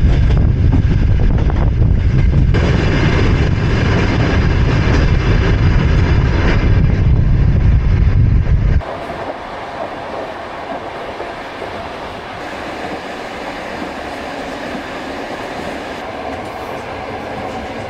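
Passenger train running on the line, a loud heavy rumble with rail noise. About nine seconds in it changes abruptly to a quieter, steady train noise.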